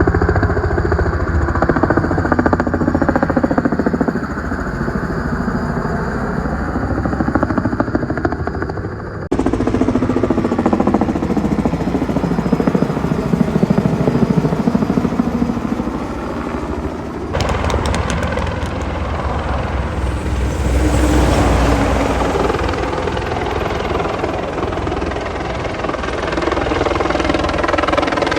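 Helicopter rotor and turbine noise running loudly, with a deep rumble and a sweeping, wavering tone as the aircraft moves. The sound changes abruptly about 9 seconds and about 17 seconds in, as if separate clips are joined.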